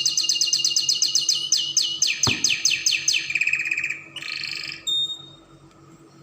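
Spanish Timbrado canary singing: fast rolling trills of rapidly repeated high notes, then a run of down-sweeping notes that slows, a lower trill, and a few short phrases, with the song stopping about five seconds in. A single sharp click a little past two seconds in.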